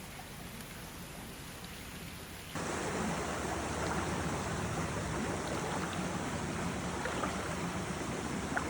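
Small mountain stream running, a steady rush of flowing water that comes in suddenly about two and a half seconds in, replacing a fainter steady hiss.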